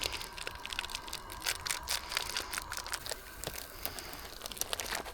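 Plastic bratwurst package crinkling and crackling in the hands in quick irregular clicks as the sausages are taken out.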